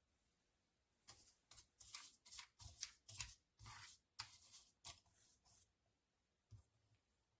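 Faint scraping or rustling strokes, a dozen or so in quick uneven succession over about four seconds, with one more short stroke near the end.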